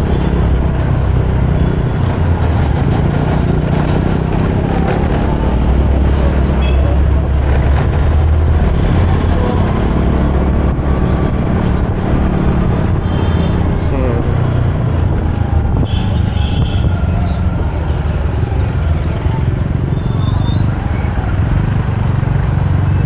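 Steady rumble of road traffic heard from a moving motorbike: engine noise and low, even road noise with no break.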